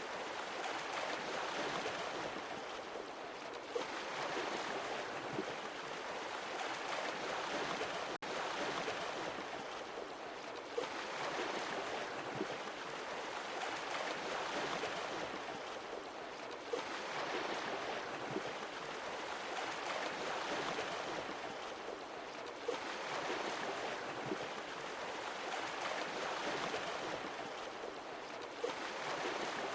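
Sea waves washing ashore, surging and drawing back in a slow, even cycle about every six seconds, with a brief click as each surge begins.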